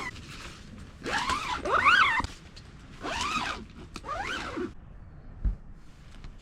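A zipper being pulled in three long strokes, its pitch rising and falling with the speed of each pull, then a soft thud near the end.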